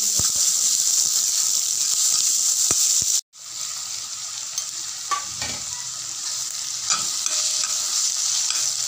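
Chopped onions sizzling in hot oil in a kadhai while a spatula stirs them. The sizzle breaks off for a moment about three seconds in and carries on quieter as chopped tomatoes go in and are stirred through, with a few spatula scrapes.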